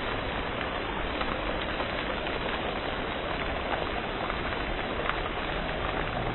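Heavy hail falling: a dense, steady clatter of many impacts, with sharper single hits standing out here and there.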